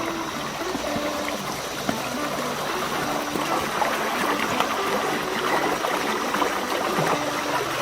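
Creek water running and trickling over rocks, a steady rushing babble.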